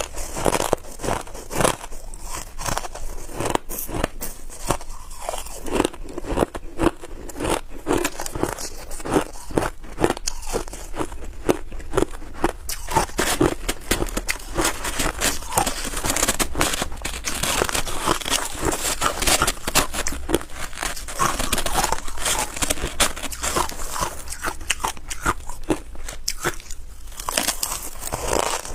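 Ice being bitten and chewed: dense, irregular crunching and cracking, many crunches a second, without a pause.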